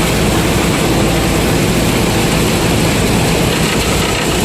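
Combine harvester engine running steadily under load, a constant low hum with a dense mechanical rush over it.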